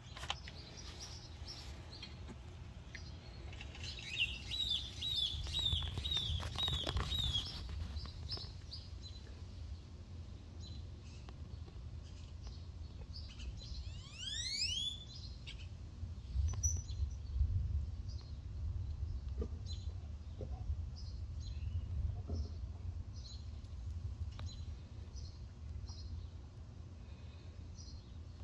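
Birds chirping: a quick run of about eight repeated high chirps some four seconds in, a couple of falling whistles around halfway, and scattered short chirps after, over a low rumble.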